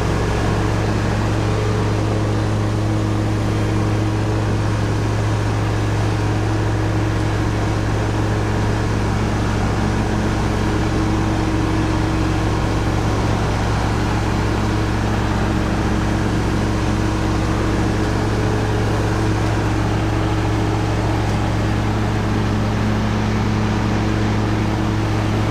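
An engine running at a steady speed, a constant drone with no change in pitch.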